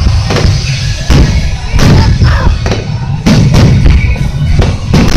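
Aerial firework shells bursting in quick succession, about two deep booms a second over a continuous low rumble, during the climax of a fireworks display.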